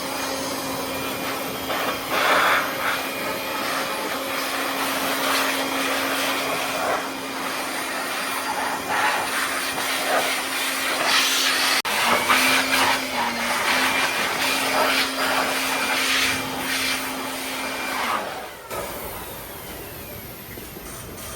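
A small electric motor running steadily at constant speed, with intermittent scraping or rubbing noise over it. The motor stops about 18 seconds in.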